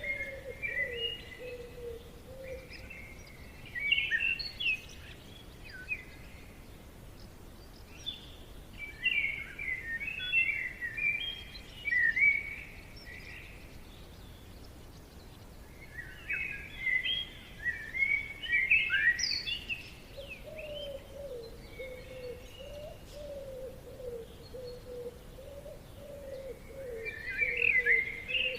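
Songbirds singing in bursts of quick chirping phrases every few seconds. Under them a lower, wavering call holds for a couple of seconds at the start and comes back for the last third.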